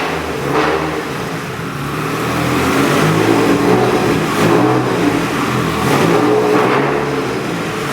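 Turbocharged four-cylinder engine of a Mitsubishi Lancer Evolution IX being revved, its note rising and falling several times.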